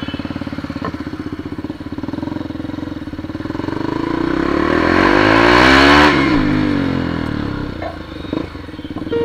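KTM Duke 200's single-cylinder engine idling with an even pulse, then revving: the pitch climbs to a loud peak about six seconds in and drops back.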